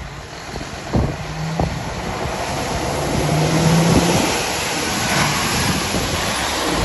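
Mercedes-Benz Actros tipper truck running, with a low hum under a rushing noise that builds up from about two seconds in; two sharp knocks come about a second in.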